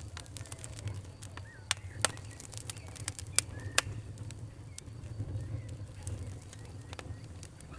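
Wood fire crackling: irregular sharp snaps over a steady low rumble, with the loudest pops about two, three and a half and four seconds in.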